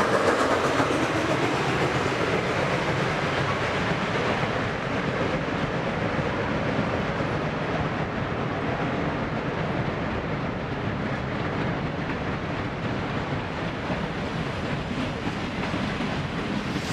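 Steam excursion train running along the rails, a steady noise of the train in motion that slowly grows quieter.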